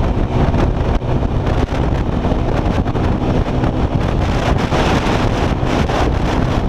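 Motorcycle engine running steadily at road speed, largely buried under heavy wind rushing over the microphone.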